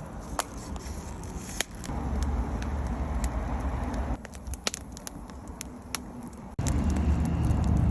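Wood fire crackling, with irregular sharp pops from the burning wood. Twice a low rumble of wind buffets the microphone, starting and stopping abruptly.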